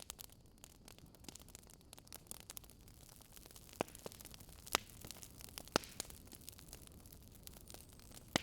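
Campfire crackling: scattered sharp pops and snaps over a faint steady hiss, with three louder pops near the middle.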